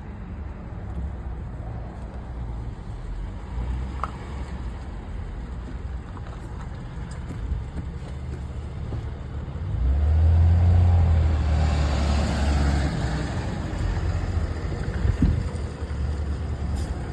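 Jeep running with a steady low rumble, growing much louder about ten seconds in, with a brief sharp sound a few seconds later.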